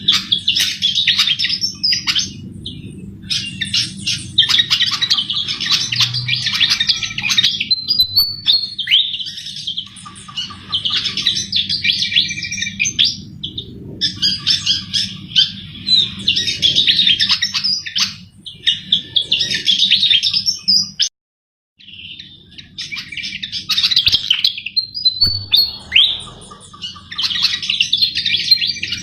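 Sikatan jawa flycatcher singing vigorously: long phrases of rapid twittering notes broken by short pauses, over a steady low hum. The sound cuts out completely for about half a second a little after two-thirds of the way through.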